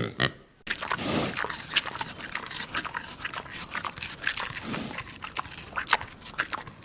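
A dog, making a busy run of short sharp sounds in quick succession that starts about half a second in.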